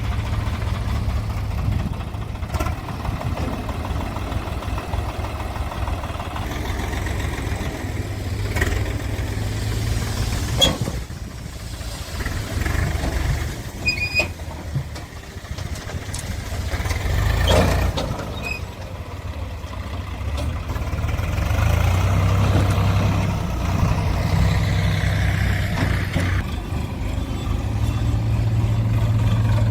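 Diesel engine of a tractor or backhoe loader running with a steady low hum, with a few sharp knocks about 11 and 18 seconds in; the engine gets louder from about 21 seconds in.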